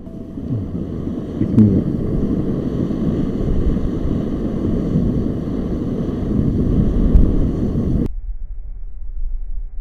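Wind buffeting the microphone: a loud, low rumbling noise that cuts off abruptly about eight seconds in, leaving a faint low hum.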